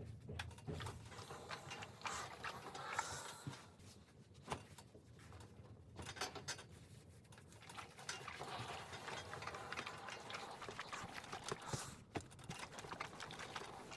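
Irregular light clicks, knocks and rustling of household items being handled, with short scraping patches.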